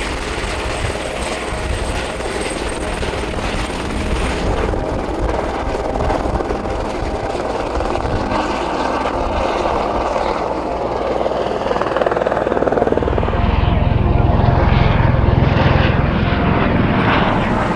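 Airbus H130 helicopter running steadily, its rotor noise growing louder and heavier in the low end about thirteen seconds in.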